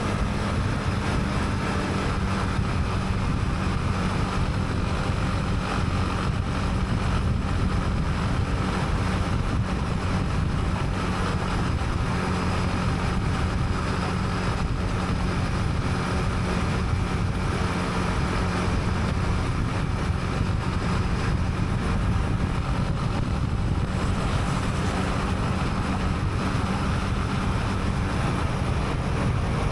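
Honda CB300R's single-cylinder engine running steadily under way, heard from the rider's helmet.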